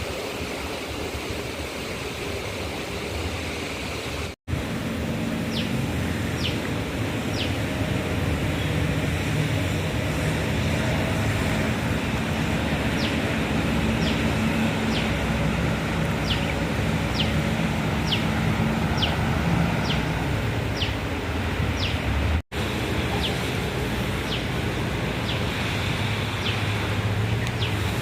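An engine of a vehicle or machine running steadily amid outdoor noise, with a run of short high chirps repeating about twice a second. The sound cuts out for an instant twice.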